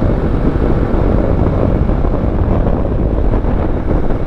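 Steady wind rush on a helmet-mounted microphone while riding a motorcycle, with road and engine noise underneath.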